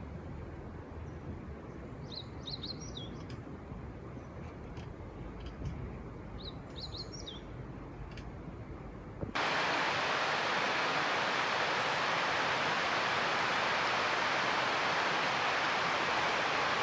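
A songbird repeats a short phrase of quick high chirps three times over low outdoor rumble. About nine seconds in, the sound cuts suddenly to a steady, louder rushing hiss like running water.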